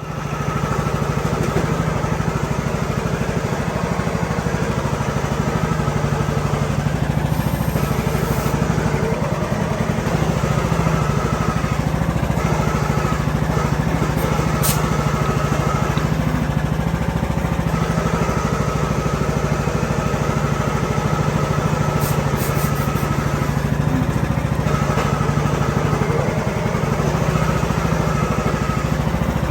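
Briggs & Stratton 19 hp Platinum engine of a Craftsman riding mower running steadily.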